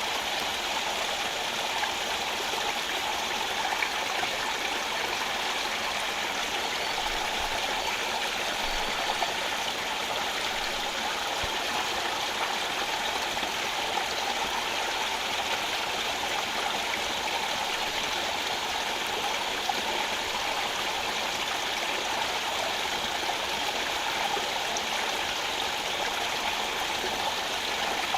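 Rocky rainforest stream flowing steadily over stones, a constant rush of water with no breaks.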